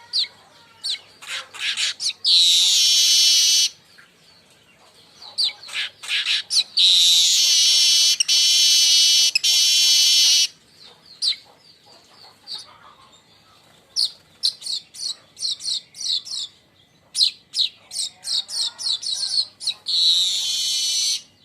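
Weaver bird (manyar) song: runs of quick, sharp chips and chatters broken by long, dense buzzes. There are three buzzes, the longest lasting about three and a half seconds.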